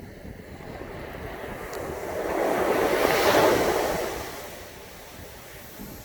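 A sea wave breaking and washing up the beach, its hiss swelling to a peak about three seconds in and then dying away, over a low rumble of surf and wind on the microphone.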